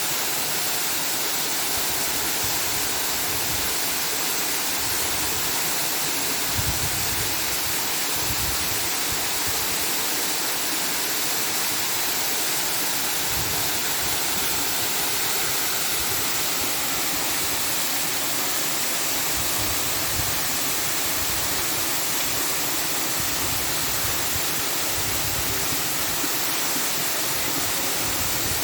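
A steady rushing noise, even throughout, like running water.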